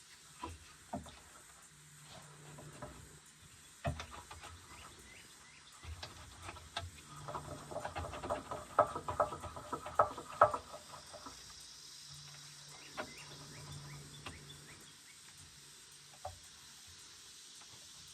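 Metal clinks and knocks of tools and parts being handled during repair work on a skid steer, with a busy rattling, ringing stretch in the middle.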